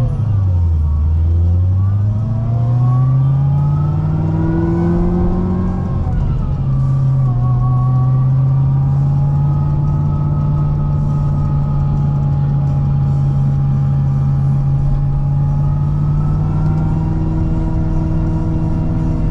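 C6 Corvette ZR1's supercharged 6.2-litre V8, fitted with a Kong supercharger, accelerating. The engine note climbs steadily for about five seconds and drops sharply at an upshift, then holds at a steady cruise.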